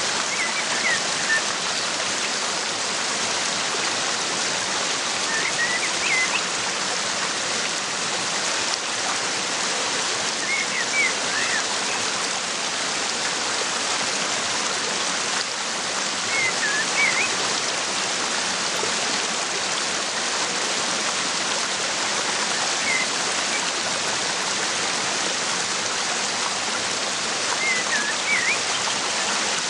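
Steady rush of a waterfall, with short bird chirps near 2 kHz coming back about every five to six seconds.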